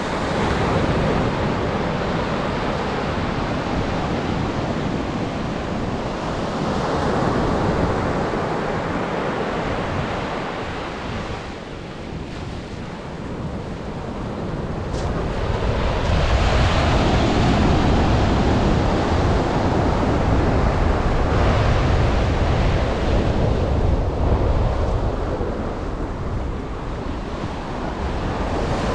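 Atlantic surf breaking and washing up the beach, swelling and ebbing over several seconds with a heavier rumbling stretch past the middle, mixed with wind buffeting the microphone.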